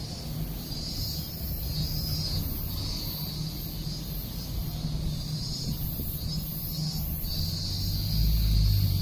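Steady low hum of a Chōshi Electric Railway train standing at the station platform, with a rumble swelling near the end. High-pitched chirping pulses on and off throughout.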